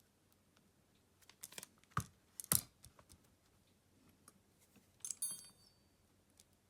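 Small clicks and taps of hand tools and smartphone parts being handled on a workbench during phone disassembly, several sharp clicks in the first half, then a brief metallic clink about five seconds in.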